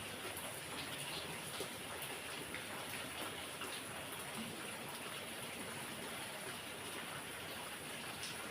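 Heavy rain falling steadily, an even hiss with scattered drops pattering on surfaces.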